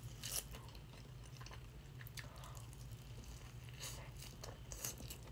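Mouth sounds of a person chewing a mouthful of burrito: faint, scattered wet clicks and smacks, with a few clearer ones about four seconds in as she bites into the burrito again.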